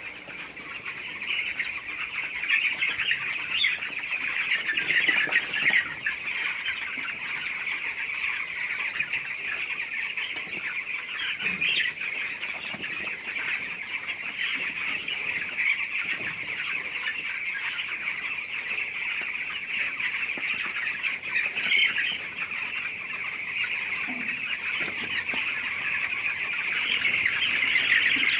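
A large flock of chickens calling all at once: a dense, continuous chorus of high peeping and chirping with no break.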